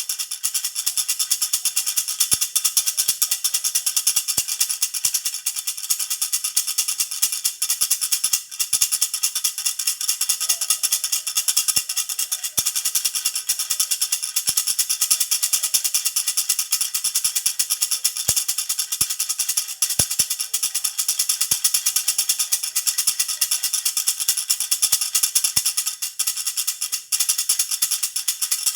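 Jhunjhuna baby rattle shaken continuously, giving a fast, steady, high-pitched jingling with a faint bell-like ring.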